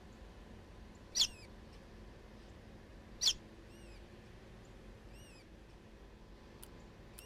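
Bird giving two short, sharp, high-pitched chirps about two seconds apart, with fainter small chirps in between.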